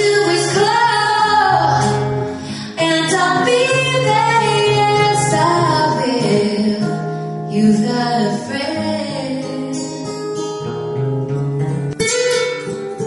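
Female voice singing with acoustic guitar accompaniment. About twelve seconds in it cuts abruptly to acoustic guitar strumming.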